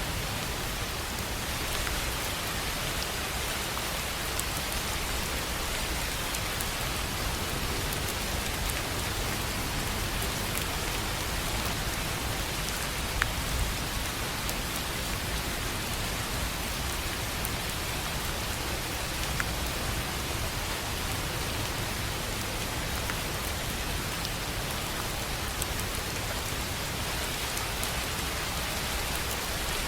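Steady rain falling on a tin roof: an even hiss of drops, with a few sharper, louder drop ticks around the middle.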